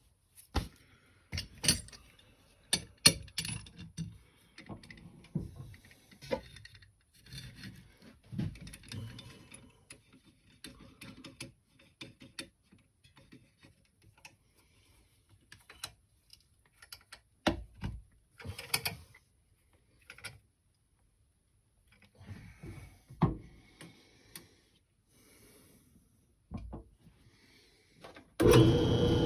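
Scattered metal clicks, clanks and knocks of tools and a steel part being handled and set up for machining. Near the end a power tool's motor starts and runs steadily.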